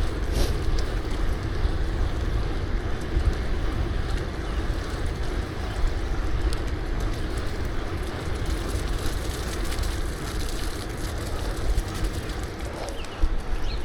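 Wind buffeting the microphone of a camera on a moving bicycle: a steady, rumbling noise, with tyre and road noise beneath it.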